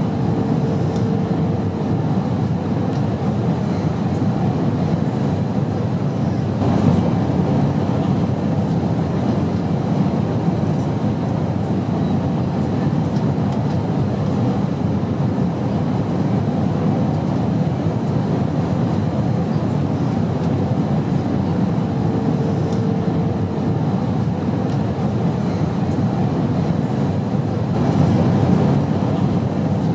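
Airplane engine noise: a steady, dense drone, strongest in the low and middle range. A faint brief tone rises above it twice.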